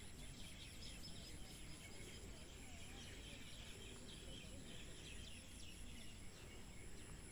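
Many small birds chirping and calling, with a steady high-pitched insect drone and a faint low rumble of outdoor noise underneath.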